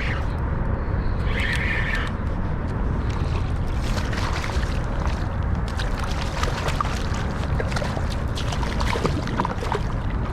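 Wind buffeting the microphone in a steady low rumble, with water sloshing and slapping against a kayak hull; light splashes and clicks come in from about three seconds in.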